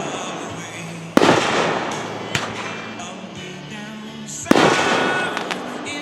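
Fireworks display: two loud aerial shell bursts, about a second in and again past the middle, each booming and trailing off over a couple of seconds. A smaller crack comes between them and a few light crackles near the end, with music playing underneath.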